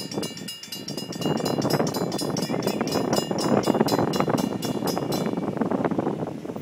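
Train cars rolling past on the rails, a dense rumble full of wheel clicks with a fast, even ticking that stops about five seconds in. Wind on the microphone.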